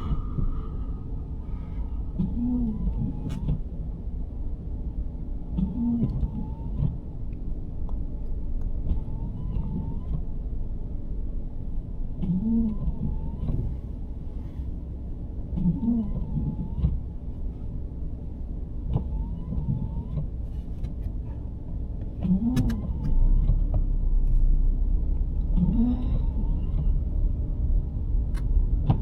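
Windshield wipers of a 2023 Nissan Sentra sweeping at a steady pace, the wiper motor giving a short rising-and-falling whine with each pass, about every three seconds, heard from inside the cabin. Under it runs a steady low road rumble that grows louder near the end.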